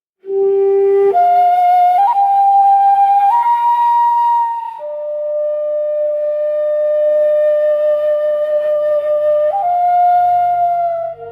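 Shakuhachi-style bamboo flute playing a slow, breathy melody of long held notes. It enters after silence, climbs in a few steps, then holds one long lower note for about five seconds before stepping up again. A faint low drone comes in under it near the end.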